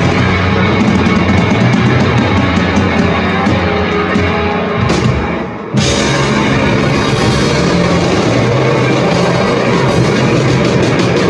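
A live rock band playing, with electric guitars and a drum kit. The music thins out and drops away briefly about five seconds in, then the full band comes back in all at once.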